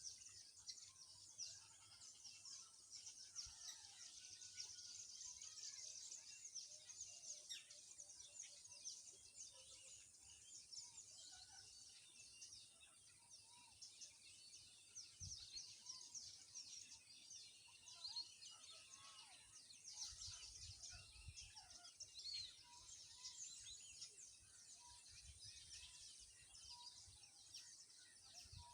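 Faint chorus of many birds chirping and twittering, in dense short high notes. Near the end a few lower call notes repeat at an even pace.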